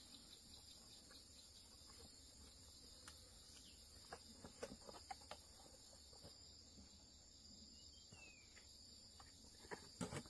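A faint, steady high-pitched chorus of crickets chirping. Scattered soft clicks come about four to five seconds in, and a short cluster of louder knocks near the end.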